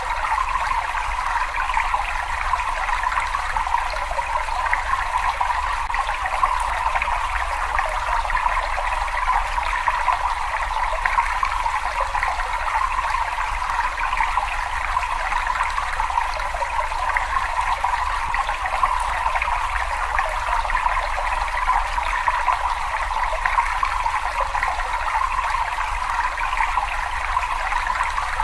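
Water running and trickling steadily in a cave, an even, unbroken rush with no separate drips standing out.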